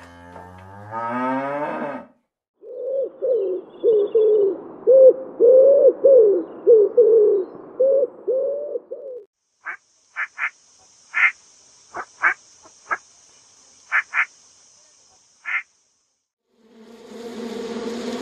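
Several different animal calls in turn: a low call rising in pitch, a run of about a dozen short warbling calls, then scattered short high chirps over a faint steady hiss, and a buzzing that starts near the end.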